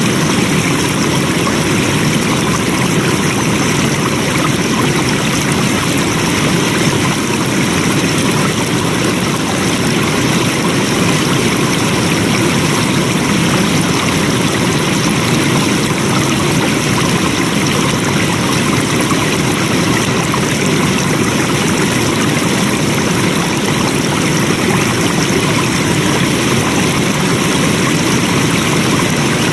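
Flowing stream water rushing steadily with no breaks or changes.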